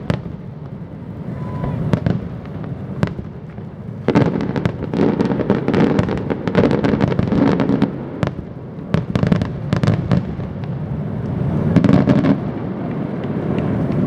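Fireworks display: scattered sharp bangs, then a dense barrage of cracking and crackling shells about four seconds in, with further bursts of crackle near the end.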